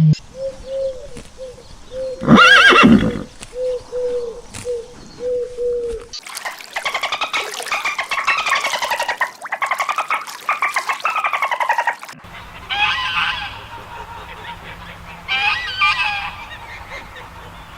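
Animal calls in three abruptly cut segments: first short repeated calls with one loud call about two and a half seconds in, then a fast pulsed trilling call for about six seconds, then scattered squawking calls.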